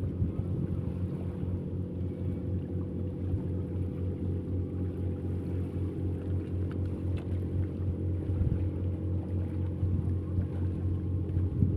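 An engine running steadily at an even speed, with a low hum.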